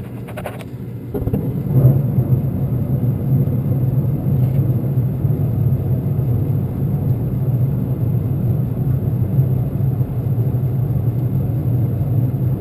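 LP gas furnace lighting about a second in, then running with a steady low rumble as its burners fire.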